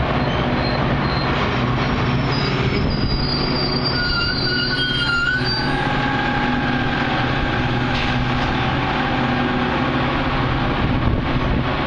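Metra commuter train running by and slowing for its stop, under a steady low drone, with thin high wheel squeals that come in about three seconds in, shift lower around six seconds and fade near nine seconds.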